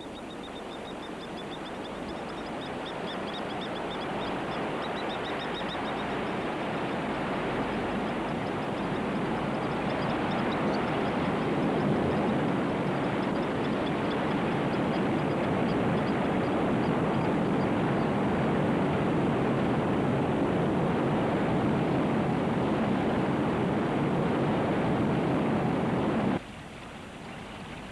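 Flood water rushing down a dry sandy riverbed: a dense, even rush of water that builds over about twelve seconds, holds steady, then cuts off abruptly near the end. Faint, repeated high bird calls sound over it for the first ten seconds or so.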